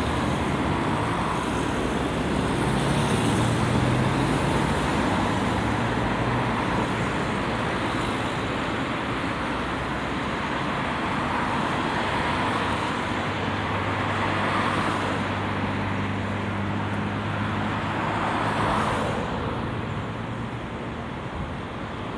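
Motor vehicle engine running steadily with road and traffic noise.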